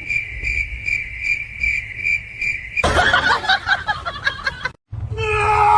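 A high, even chirp repeating about two and a half times a second, like a cricket, for the first three seconds. It then gives way to a jumble of clattering noise, which cuts out briefly near the end before a new sound with steady tones begins.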